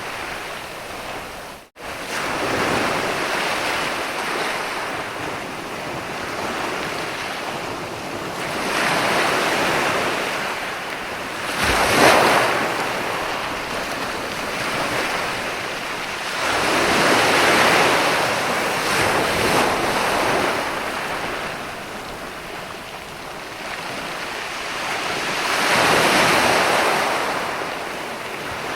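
Sea waves breaking and washing up a beach, the surf swelling and fading every few seconds, loudest in a sharp break about twelve seconds in. The sound drops out completely for an instant just under two seconds in.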